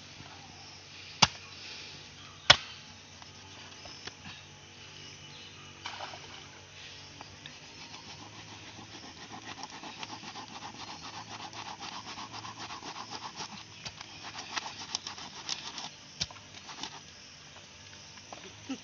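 A knife sawing and scraping at a freshwater eel's tough, slippery body, in quick repeated strokes. There are two sharp knocks in the first few seconds, and scattered clicks near the end.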